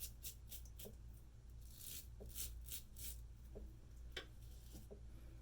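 Straight razor with a Feather Pro Guard blade scraping stubble through lather in a series of short, faint strokes, shaving against the grain.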